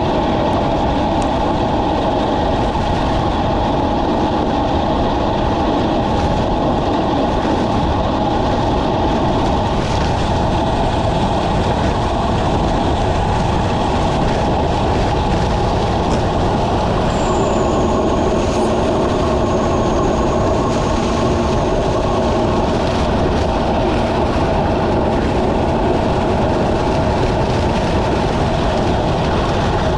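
Steady, loud rushing road noise of riding at speed in the rain, unbroken throughout.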